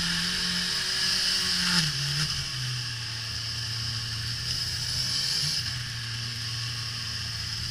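Suzuki GSX-R1000 K5's inline four-cylinder engine on track. Its note drops about two seconds in, then holds steady at lower revs through a long corner, under loud wind rushing over the onboard camera's microphone.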